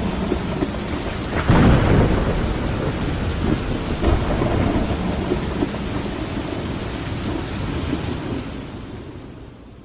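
Steady heavy rain with thunder rumbling, loudest about a second and a half in, then the whole sound fades out near the end.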